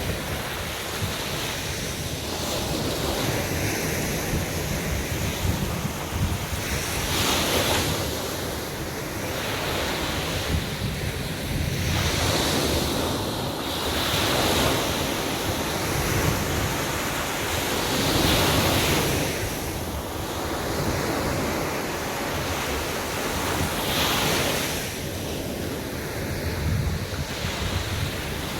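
Sea waves breaking and washing up a beach in a steady surf, each wave swelling and falling back every few seconds, with wind buffeting the microphone.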